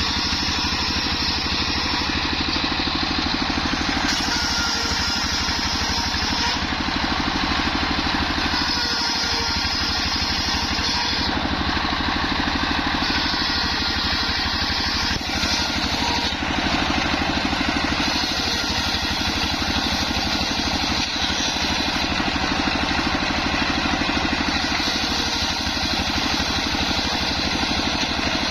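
Homemade engine-driven circular sawmill running steadily. A higher hiss comes and goes every few seconds as the blade rips waru wood into battens.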